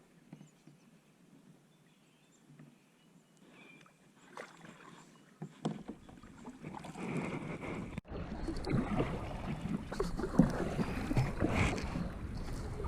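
Kayak on a river: water sloshing and splashing with scraping and rubbing from a lifejacket against the GoPro, faint at first and much louder from about six seconds in.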